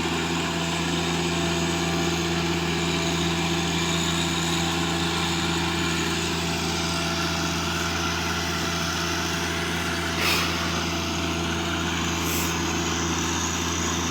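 Tractor engine running at a steady speed while tilling hard, compacted ground, with a brief burst of noise about ten seconds in.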